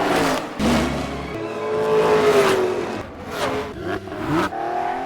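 Race car engine sound effects revving, their pitch rising and falling, in short spliced pieces that cut off abruptly several times.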